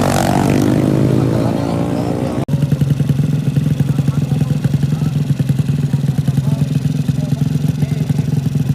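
A racing motorcycle passes close by, its engine pitch falling as it goes. Then, after an abrupt cut, a motorcycle engine runs steadily with a loud, choppy exhaust.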